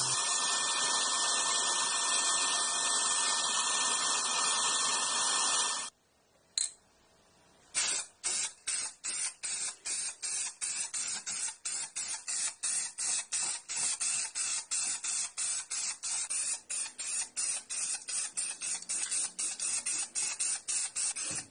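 A steady hiss for about six seconds that cuts off suddenly. After a single click comes a rapid, even series of short rubbing or scraping strokes, about three or four a second.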